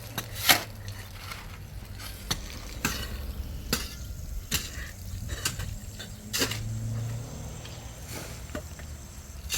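A series of sharp knocks and clicks at irregular intervals, about nine in all, the loudest about half a second in, over a steady low hum.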